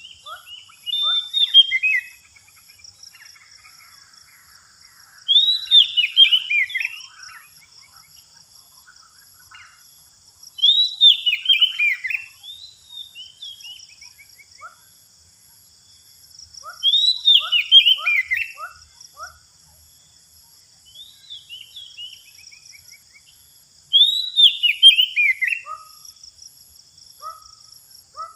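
Oriental magpie-robin (kacer) calling in loud phrases of quick notes that tumble downward, repeated about every six seconds with short chips between them. A steady high insect drone runs underneath.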